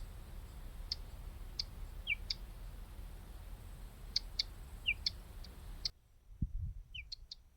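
A songbird giving short, high chirps and clicks, some sliding down in pitch, in loose groups a second or so apart, over a low rumble that cuts out suddenly about six seconds in.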